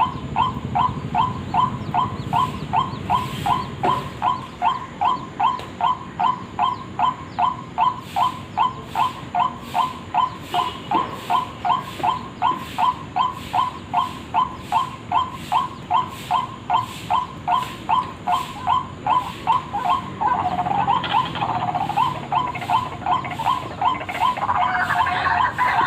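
White-breasted waterhen call, used as a bird lure: a steady string of repeated calls, about two to three a second, that gives way after about twenty seconds to denser, more jumbled calling.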